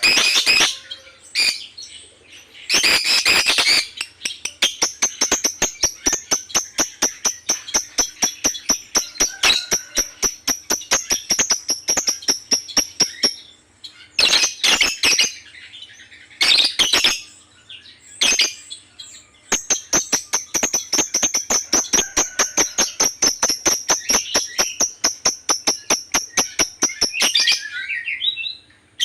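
Lovebird singing in long, fast rattling trills of sharp repeated notes, about five a second, with a high whistle held over them. There are two long runs of several seconds each, and short chirp bursts between them.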